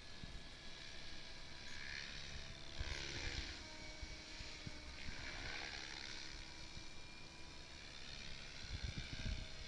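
SAB Goblin 700 electric radio-controlled helicopter in flight, its motor and rotor whine sliding down and back up in pitch as it moves about, over a steady rushing hiss.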